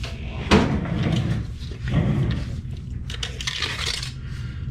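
Rummaging for a tape measure among objects in a drawer: knocks, clatter and scraping, with a sharp knock about half a second in.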